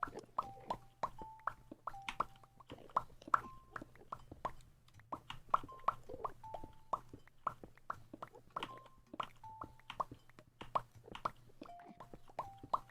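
Mouth pops: a person making quick hollow popping sounds with the mouth, about two or three a second, each pop's pitch shifting as the mouth shape changes.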